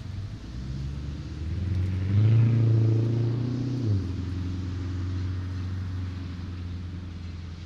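Car engine on a road: a low steady hum that swells louder between about two and four seconds in, then settles back to a steady drone.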